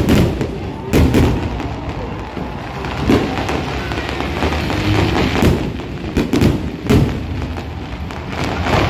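Aerial fireworks shells bursting: several sharp bangs at uneven intervals over continuous crackling.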